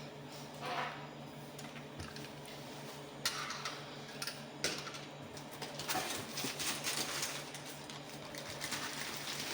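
Scattered light clicks and rattles of small parts being handled, thicker in the second half, over a steady low electrical hum.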